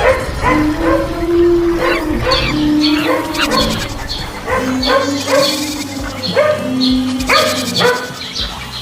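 Mixed animal calls from an animated stampede's sound effects: many short pitched cries in quick succession, about three a second, overlapping one another.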